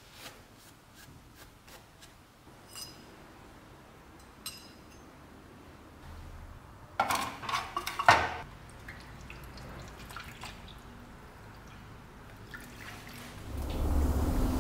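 Light clinks and taps of small hard parts being handled, with a louder cluster of clattering knocks about seven to eight seconds in. A low steady hum comes in near the end.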